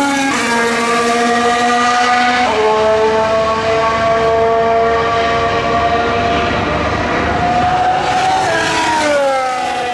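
A 2019 Formula 1 car's 1.6-litre turbocharged V6 hybrid engine at high revs. It upshifts about a third of a second in and again about two and a half seconds in, then climbs steadily in pitch. From about eight and a half seconds it falls in pitch as the car brakes and downshifts.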